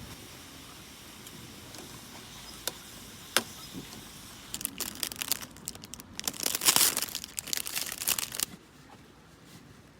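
Crinkling and rustling as something papery or plastic is handled, for about four seconds from midway and loudest near its end. Before it, a few single clicks over a faint steady background.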